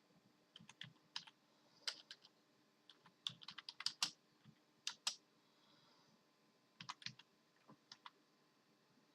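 Computer keyboard keys being pressed in irregular, quiet clusters of clicks with short pauses between them.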